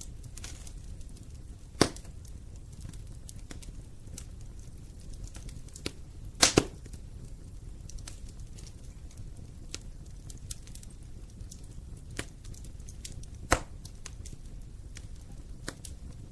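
Wood fire in a fireplace crackling over a steady low rumble of the flames, with a loud pop about two seconds in, a double pop near the middle and another pop a few seconds before the end.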